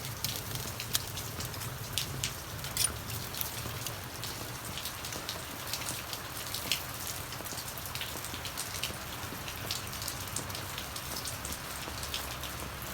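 Steady rain falling, with many separate sharp drop hits on a surface scattered irregularly through it, over a faint low hum.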